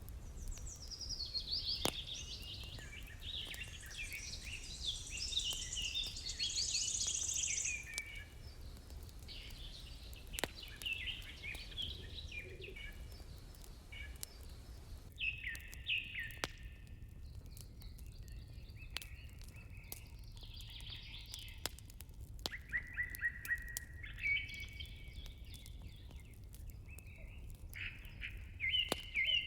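Several songbirds singing and chirping in overlapping warbling phrases, with a steady low rumble underneath and scattered sharp crackles from a fire.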